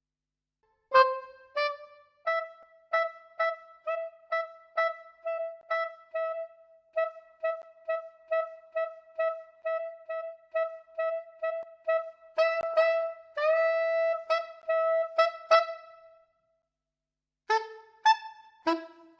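A sampled wind instrument from the Broadway Lites library, sax- or trumpet-like, playing many short detached notes repeated on a single pitch at about two to three a second. It holds one longer note near the middle of the run, stops, and then plays a few notes of different pitch near the end.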